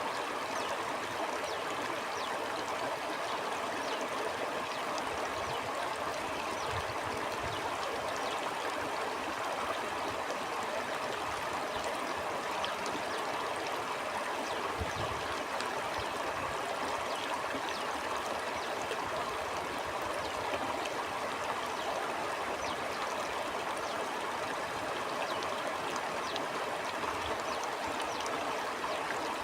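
Stream water flowing steadily, an even rush with small splashes flickering through it and a brief low surge about halfway through.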